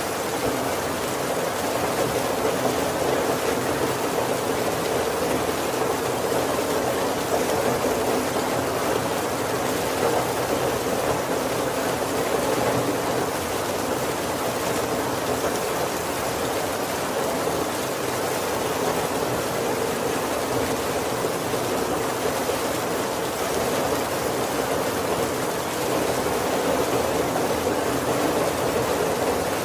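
Heavy, steady rain drumming on a wooden roof and windows, heard from inside as an even wash of rain noise.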